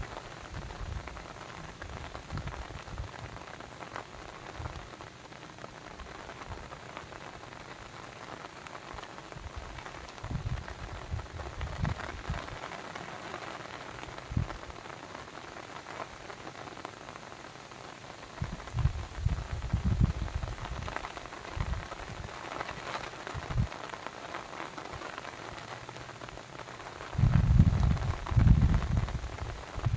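Steady hiss of falling or running water, with low rumbling swells that come and go several times, loudest near the end.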